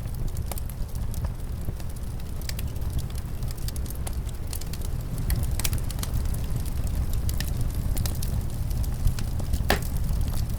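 Wood fire crackling, with irregular snaps and pops over a steady low rumble of winter wind. One louder crack comes near the end.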